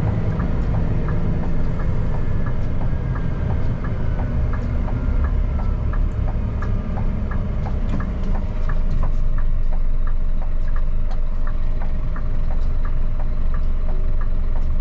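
Scania P310 truck running, heard as a steady low rumble from inside the cab, a little louder from about two-thirds of the way in. A light, even ticking about three times a second runs along with it.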